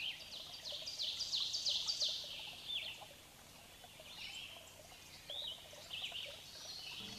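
Songbirds singing: a quick run of sharp, falling chirps in the first three seconds, then softer, scattered chirps. Music with steady low tones comes in at the very end.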